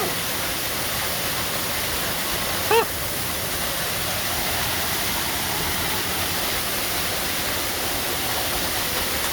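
Waterfall: a steady, even rush of heavy falling water. A short voice sound cuts in briefly about three seconds in.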